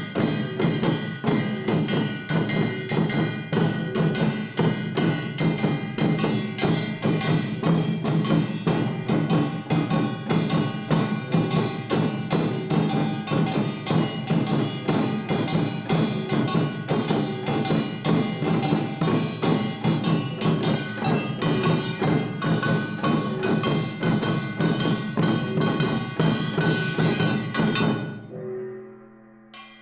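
Korean samul nori percussion ensemble (kkwaenggwari small gong, janggu hourglass drum, buk barrel drum and jing gong) playing a fast, dense rhythm of many strokes a second. Near the end the playing stops suddenly and a single ringing tone is left sounding.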